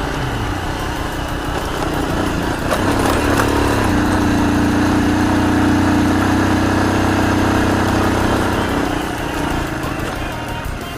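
Honda Super Cub's small single-cylinder four-stroke engine running under way. The revs rise about three seconds in, hold steady, then ease off near the end.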